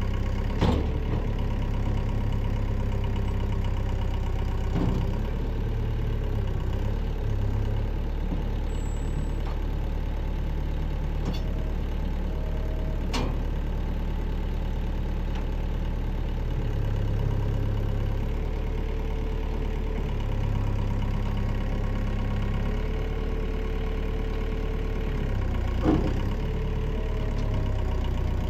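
Tractor diesel engine running steadily, its note shifting now and then, with a few sharp metallic clanks, the loudest about a second in and near the end.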